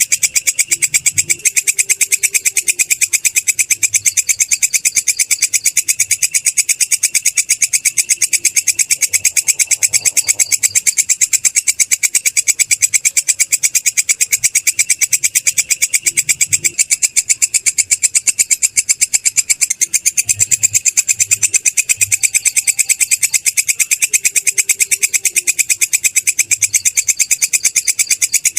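Belalang kecek, a katydid, stridulating in a continuous high-pitched trill of fast, evenly spaced pulses that never breaks.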